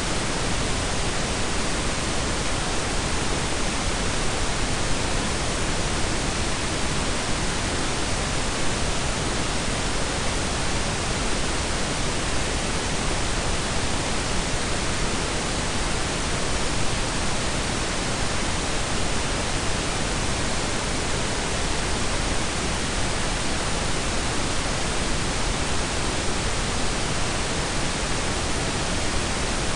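Steady blend of pink and brown noise: an even, unchanging hiss with a deep rumble underneath.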